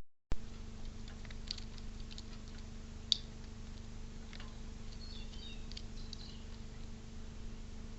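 Faint scattered clicks and taps at a bird feeder, the sharpest about three seconds in, over a steady low electrical hum. A brief cluster of faint high chirps comes about five seconds in.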